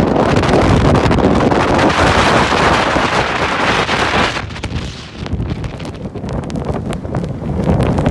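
Strong wind blasting across the microphone in gusts. It eases for a couple of seconds past the middle and then rises again near the end.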